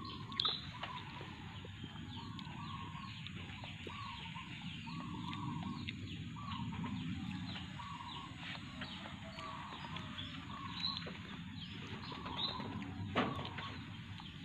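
Birds chirping and calling over and over, over a steady low background noise, with one sharp click near the end.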